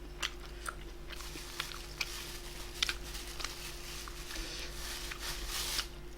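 A person chewing and eating food close to the microphone, with scattered sharp mouth clicks and smacks, over a faint steady hum.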